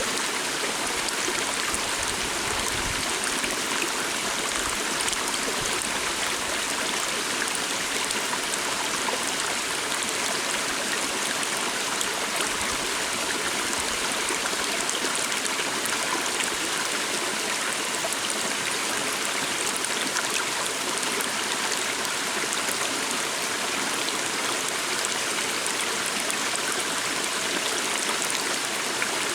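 A small stream running steadily over stones, an even rushing wash of water with faint splashes and trickles.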